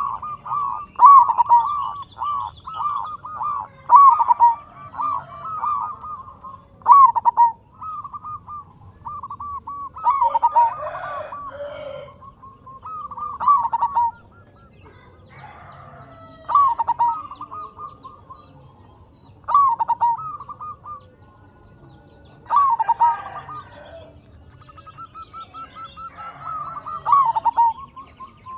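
Zebra dove (perkutut) cooing in full song: phrases of quick, repeated coo notes, each run lasting a second or two and followed by a pause, over and over.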